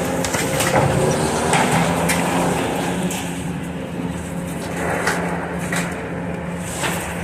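Heavy demolition machine's engine running steadily under load, with repeated knocks and crunching of building debris being broken and pulled apart.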